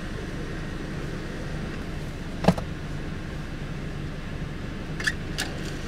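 Car engine idling steadily, heard from inside the cabin as a low hum, with one sharp click about halfway through and two lighter clicks near the end.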